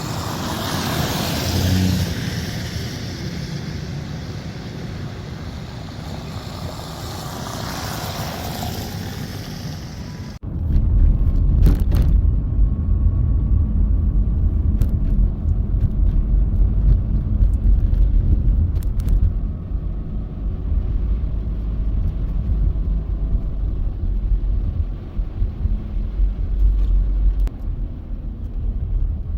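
Vehicle noise on a snowy city street: for about ten seconds a broad hiss like tyres through slush, then, after an abrupt cut, a heavy steady low rumble with a few scattered knocks.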